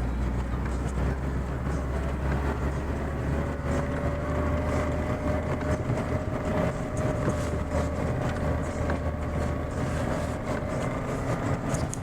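Chevrolet Niva's four-cylinder engine running, heard from inside the cabin as a steady low drone. A steady thin whine comes in about three seconds in and holds.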